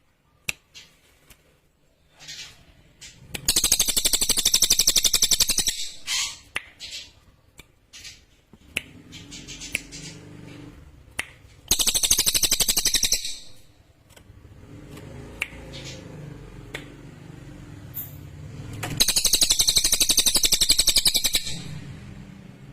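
Cililin songbird singing three long, very rapid, high-pitched trills, each lasting about one and a half to two and a half seconds, with short clicks and chips between them.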